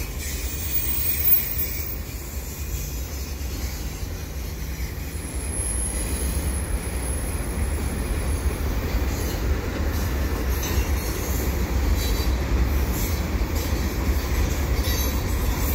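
Freight train of auto rack cars rolling past: a steady deep rumble of wheels on rail, with a faint high wheel squeal about five seconds in and scattered clicks of wheels over the rails in the second half.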